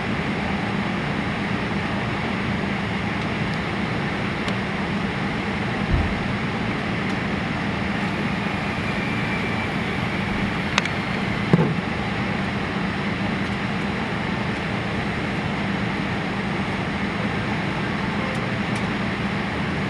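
Steady hum of a Boeing 787-8 airliner's cabin air and systems noise, with a few faint clicks and knocks from around the cabin near the middle.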